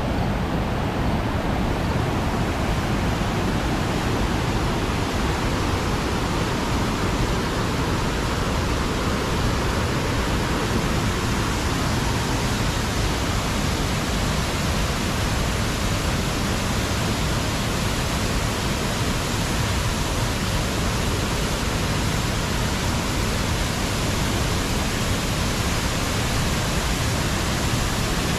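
Steady rushing water making a continuous, even noise.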